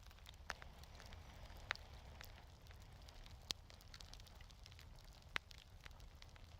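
Wood fire in a fireplace crackling softly: scattered sharp pops and ticks at irregular times, four of them louder, over a low steady rumble.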